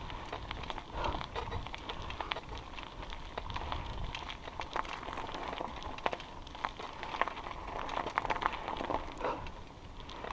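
Bicycle rolling along a dirt and gravel trail: a steady stream of irregular crunching and rattling clicks from the tyres and bike, over a low rumble of wind on the microphone.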